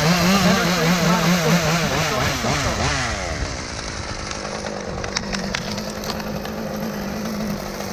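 Chainsaw running at high revs, its pitch wavering up and down for about three and a half seconds, then dropping to a steady idle with a few sharp clicks near the middle.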